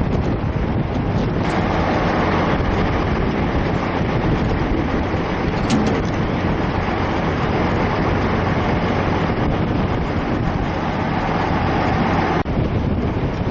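Steady motor-vehicle noise mixed with wind on the microphone, cutting off abruptly near the end.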